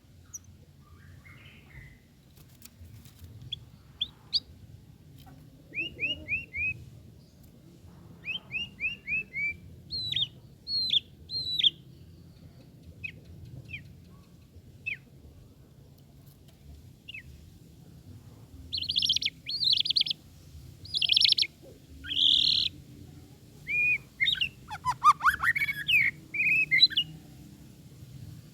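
White-rumped shama (murai batu) singing a varied song: clear whistles, runs of four or five quick down-slurred notes, and, in the last third, louder harsh rasping notes followed by a rich tumbling phrase, with short pauses between phrases.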